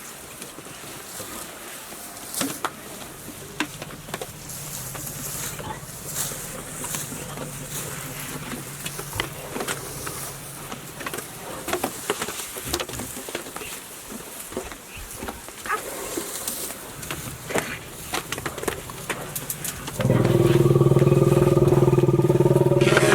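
Rustling and scattered clicks over a faint low hum, then, about twenty seconds in, a wild Asian elephant gives a loud, steady, deep trumpeting roar lasting about three seconds, typical of an agitated elephant.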